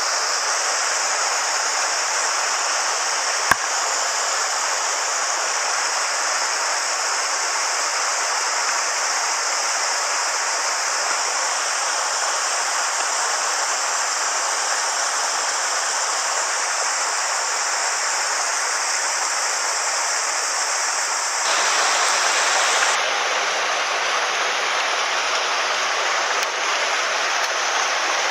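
Rushing water of a mountain headwater stream, a steady hiss of flowing water, with one sharp click about three and a half seconds in. The water sound shifts and grows slightly louder about three-quarters of the way through.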